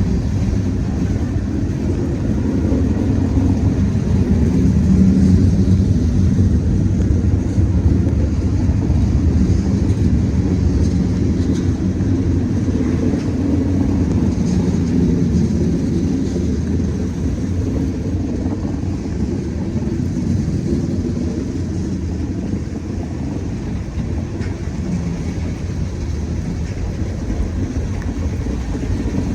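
CSX freight train running steadily, a continuous low rumble that swells slightly about five seconds in and eases a little in the second half.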